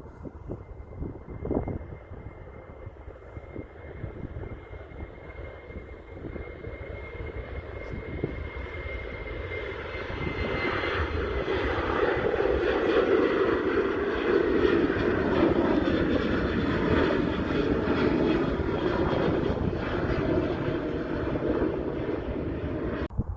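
Jet airliner passing, a high engine whine sinking slightly in pitch as the engine noise grows over about ten seconds into a loud, steady rush, which cuts off suddenly near the end.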